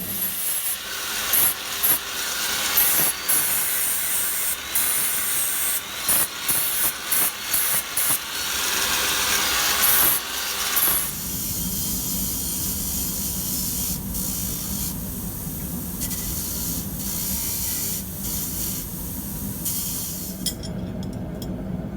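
Quick, irregular rasping strokes of a tool scraping across steel for about ten seconds, then an abrupt change to a steady low rushing noise.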